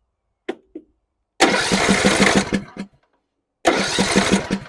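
John Deere E100 riding mower's engine cranking on its starter in two bursts of about a second and a half each, chugging in an even rhythm without catching: the engine will not start. A couple of short clicks come just before the first crank.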